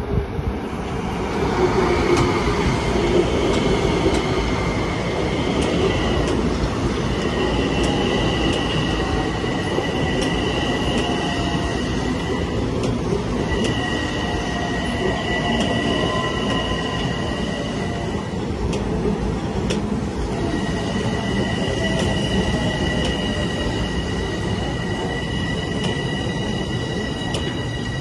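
Train running on rails with its wheels squealing: a high, steady squeal in long stretches with brief breaks over a continuous rumble. Near the end the squeal slides down in pitch.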